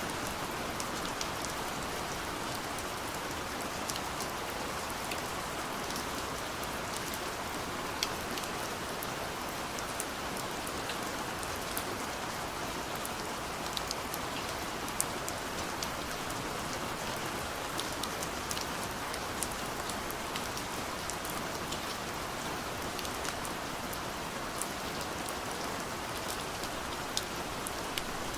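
Gentle, steady rain hitting a window, a continuous hiss with many small drop ticks scattered throughout.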